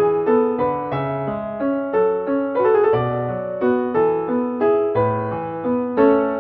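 Background piano music: a waltz, with single notes struck in a steady pulse and left to ring.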